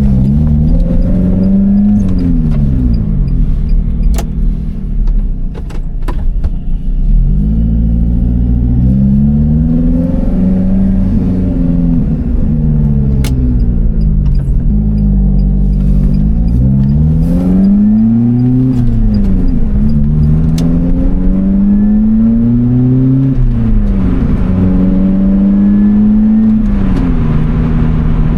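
The Lotus Elise Cup 250's supercharged 1.8-litre Toyota four-cylinder engine under way, its pitch rising and falling again and again as the car accelerates, shifts and slows, with a few sharp clicks over it.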